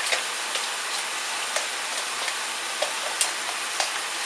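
Running water flowing steadily as a hiss, with a few small splashes and drips, as it rinses the horn of a Lionel whistle tender to flush bugs out.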